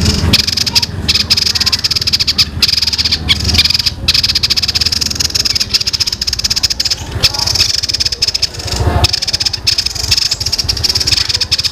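A songbird's rapid, high-pitched rattling trill of fast, evenly repeated notes, delivered as a continuous machine-gun-like 'tembakan' burst.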